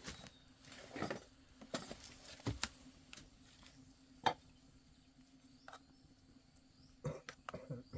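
Scattered light knocks and clicks, a few at a time, over a faint steady hum, with a short throaty voice sound near the end.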